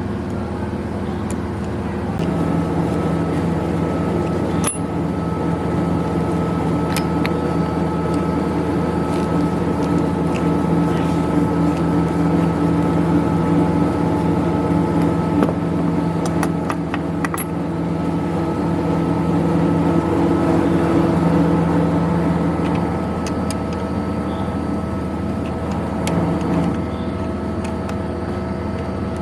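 A small electric motor running steadily with a constant hum, starting about two seconds in and dropping off near the end, over a lower background drone, with a few sharp clicks and taps.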